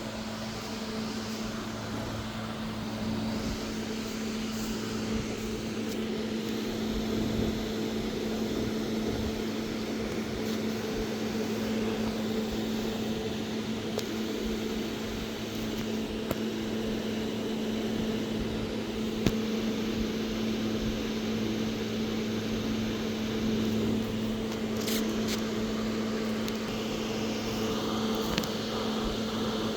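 A steady low mechanical hum, with a couple of brief sharp clicks about two-thirds of the way through and near the end.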